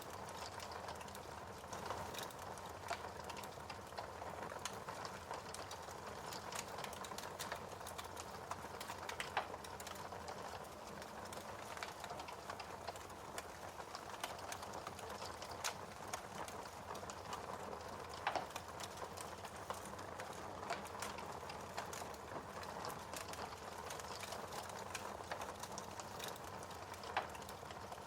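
Wood fire crackling, a steady soft hiss with scattered snaps and a few sharper pops.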